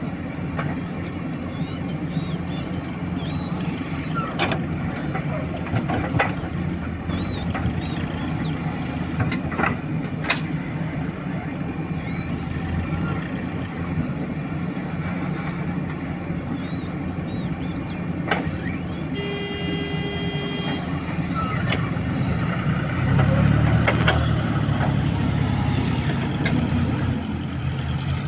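Diesel engine of heavy machinery running steadily, growing louder for a few seconds in the last third as it revs. There are scattered sharp knocks and a brief held tone, about two seconds long, past the middle.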